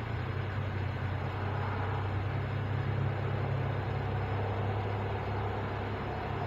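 Truck engine idling, a steady low rumble that goes on without change.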